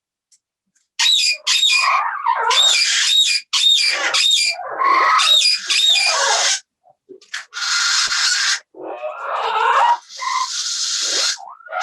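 A parrot squawking loudly in a quick run of calls, then giving harsh, drawn-out screeches in the second half.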